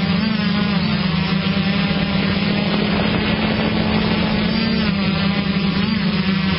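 Motocross motorcycle engine running at high, fairly steady revs, its pitch wavering slightly up and down.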